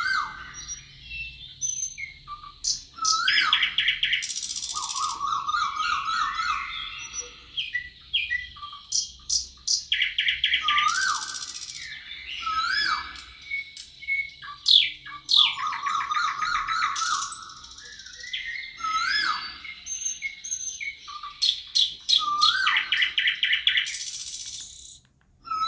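Several birds singing at once in forest: repeated short rising whistled notes, fast trills and harsh buzzy calls, overlapping throughout.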